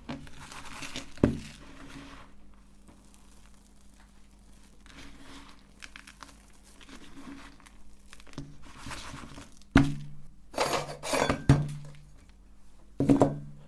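Hard objects clinking, knocking and scraping against metal and each other: chalk pieces and meat grinder parts being handled. The clatter is sparse at first, then louder in quick clusters about ten seconds in and again near the end.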